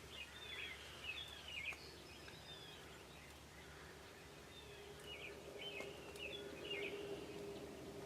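A songbird singing two short bursts of quick, sweeping notes, each lasting about a second and a half, over faint outdoor background noise. A low steady drone comes in about halfway through.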